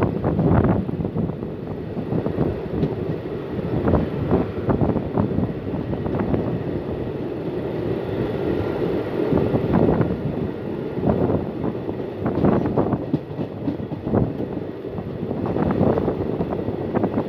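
Passenger coach running on the rails, heard from its open door: a steady rumble with irregular sharp clacks of the wheels over rail joints and points.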